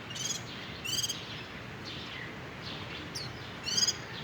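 Small birds chirping: short rapid trills of high chirps, the loudest about a second in and near the end, with fainter single chirps between, over a steady background hiss.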